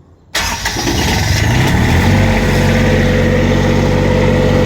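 Standby diesel generator engine starting after its glow plugs have preheated. It catches suddenly about a third of a second in, rises in pitch as it comes up to speed over the next second or two, and then runs steadily.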